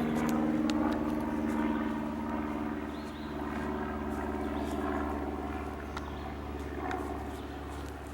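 A passing vehicle's engine droning steadily, loudest at first and gradually fading away.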